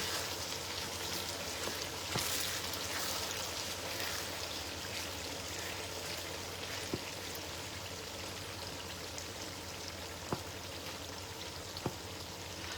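Water running and splashing steadily as spinach leaves are washed, with a few light knocks.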